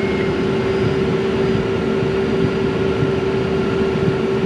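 Cessna Citation M2's twin turbofan engines running at low taxi power, heard from inside the cockpit: a steady tone over a constant rumble.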